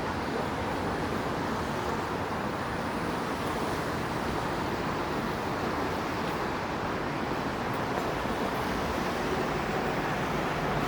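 Steady city street noise in the rain: traffic passing on wet road.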